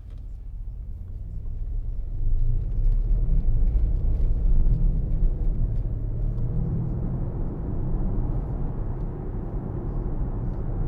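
Mercedes-AMG GLC63 S's 4.0-litre twin-turbo V8 under hard acceleration, heard from inside the cabin: a deep engine note that swells over the first two or three seconds and then holds loud, sounding like a low pass in a Spitfire.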